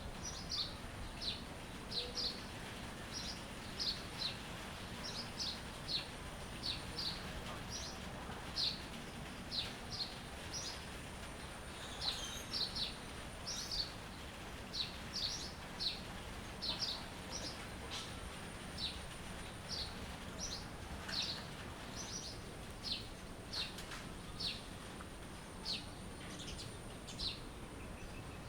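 Bird chirping: short high notes that sweep downward, repeated one to two times a second and often in pairs, over a steady faint background hiss and a thin steady high tone.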